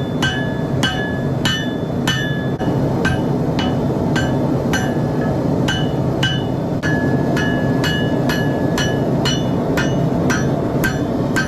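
Hammer blows on a hot Damascus steel billet over an anvil, drawing the forge-welded billet out longer. The blows land at an even pace of about two a second, each with a bright ring, and the ring holds longer on a few blows past the middle. A steady rushing noise runs underneath.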